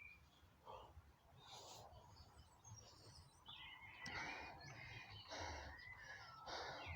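Faint birdsong outdoors, short chirps and gliding whistles. About four seconds in, a series of breathy rushes begins, roughly one a second.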